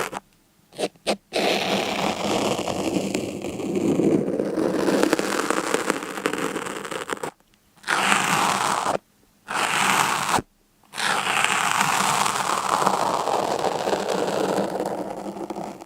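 A steady scraping, crackling noise with no clear pitch. It cuts out suddenly to near silence several times, briefly each time.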